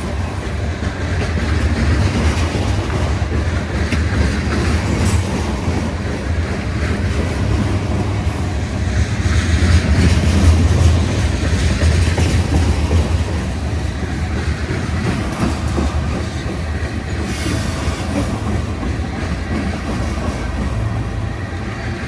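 Train passing on the tracks: wheels clicking over the rail joints over a steady low rumble, loudest about halfway through.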